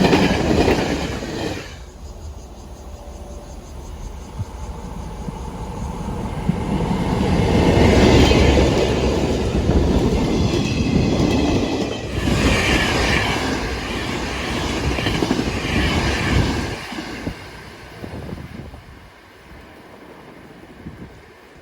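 Train running on the rails with wheels clattering over the track, growing louder to a peak near the middle with some high squeal, then fading away over the last few seconds.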